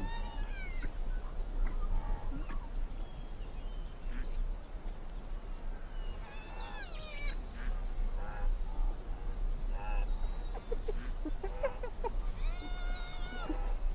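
Spotted hyenas whining: high calls that fall in pitch about a second in and again around six to seven seconds, then a more level, drawn-out call near the end, with short chirps between them over a steady high hiss.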